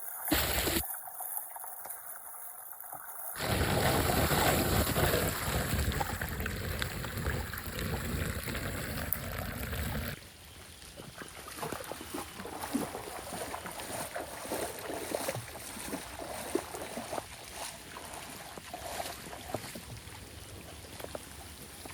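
Floodwater rushing and gurgling as it drains down a street drain, loudest for several seconds after a sudden jump in level a few seconds in, then dropping to a quieter, crackly flow. Wind buffets the microphone.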